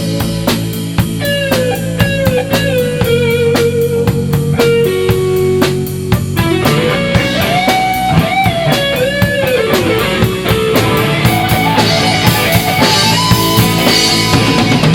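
A rock band playing an instrumental break with no vocals: an electric guitar lead melody with pitch bends over a drum kit.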